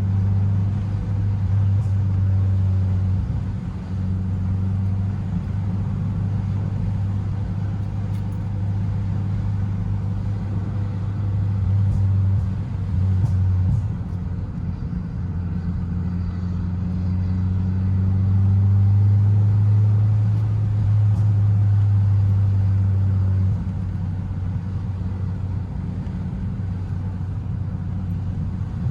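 Honda Civic engine and exhaust running with a steady low drone. The drone rises in pitch and level about two-thirds of the way through, then drops back a few seconds later.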